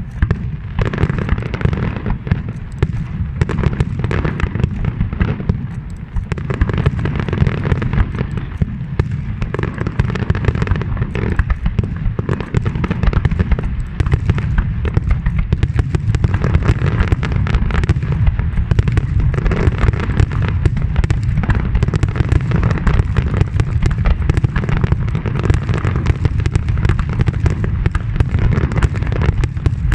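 A large fireworks display in a dense, continuous barrage of bangs and crackles with no pause, heavy in deep booming, as picked up by a phone's microphone.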